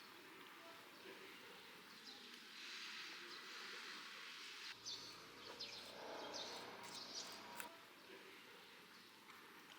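Faint outdoor background noise, with a few short high bird chirps between about five and seven and a half seconds in.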